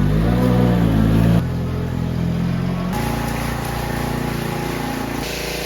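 An engine running, its pitch rising briefly early on, with sudden changes in its sound about a second and a half in and again about three seconds in, as if separate clips were joined.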